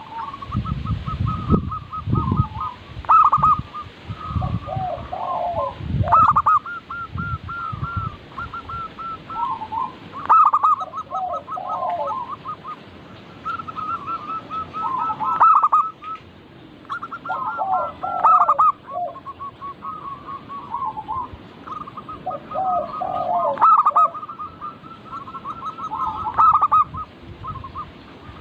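Several zebra doves (perkutut) cooing, their phrases of short rapid notes overlapping and coming every couple of seconds. A low rumble sits under the calls for the first eight seconds or so.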